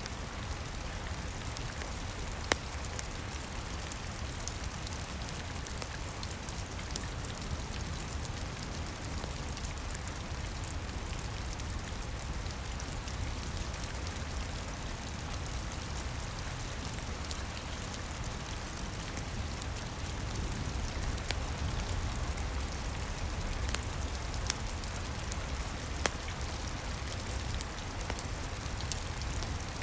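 Steady rain patter with a deep rumble underneath, and now and then a single sharp pop of a crackling wood fire, the loudest about two and a half seconds in.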